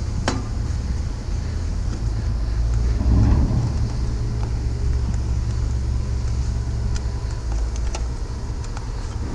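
Vehicle engine idling with a steady low rumble, swelling briefly about three seconds in, with a few sharp clicks of metal handling over it.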